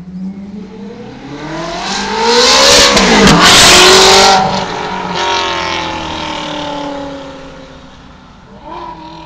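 Ferrari F430's V8 with a de-catted race exhaust driving past at speed. The exhaust note climbs in pitch and loudness as the car approaches, is loudest as it passes, then drops and fades as it moves away. A short second rise comes near the end.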